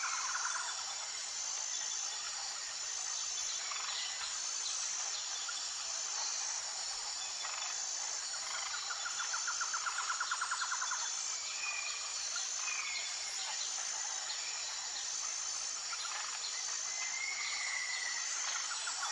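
Natural outdoor ambience: a steady high-pitched insect chorus with an evenly pulsing high note over it. A rapid trill lasting about two seconds comes near the middle, and a few short bird chirps come later.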